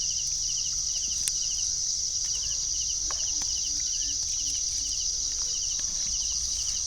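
Night chorus of crickets: a steady high-pitched trill, with another insect's short pulsed chirps repeating just below it and a few faint clicks.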